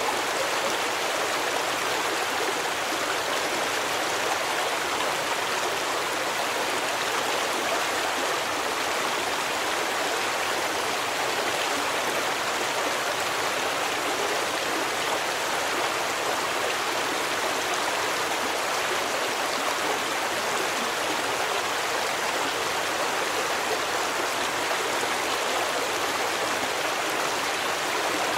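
Stream water rushing and babbling steadily, an even wash of water noise with no breaks.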